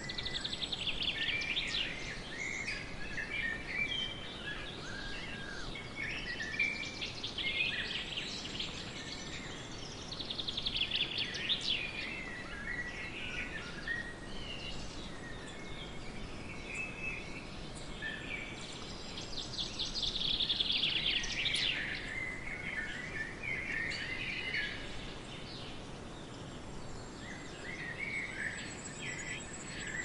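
Several songbirds chirping and singing, with quick trills that come in bouts, over a steady outdoor background hiss.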